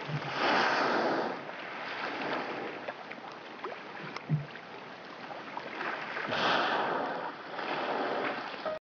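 A bowhead whale surfacing among loose ice floes: water washing and splashing in a few surges, the loudest near the start and again about six seconds in. There is a soft low thump around the middle, and the sound cuts off abruptly just before the end.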